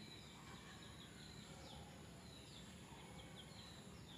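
Near silence, with faint, short high chirps of small birds, each falling in pitch, repeating irregularly in the background.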